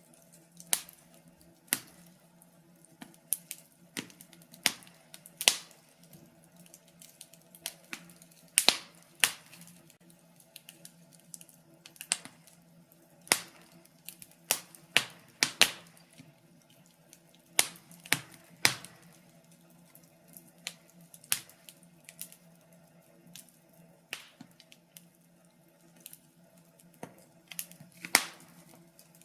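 Fire crackling in a fireplace: irregular sharp pops and snaps, some much louder than the rest, over a faint steady low hum.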